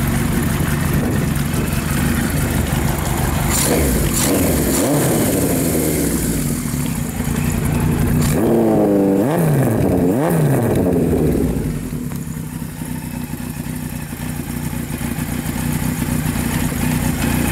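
1978 Kawasaki Z1000's air-cooled DOHC inline-four running through a stainless 4-into-1 exhaust, idling steadily with a brief rev a few seconds in and two quick throttle blips near the middle, each rising and falling back to idle.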